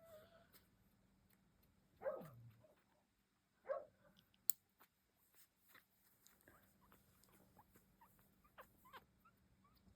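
Two-day-old Shetland sheepdog puppies making faint squeaks and whimpers, with two louder short cries about two and about four seconds in, the first sliding down in pitch. A single sharp click comes about four and a half seconds in.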